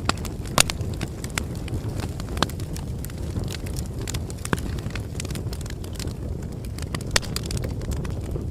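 Wood bonfire burning: a steady low rumble of flames with irregular sharp crackles and pops. The loudest pops come about half a second in and again near the end.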